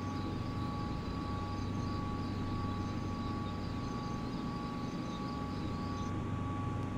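Steady outdoor background noise: a low, even rumble with two faint steady high tones over it.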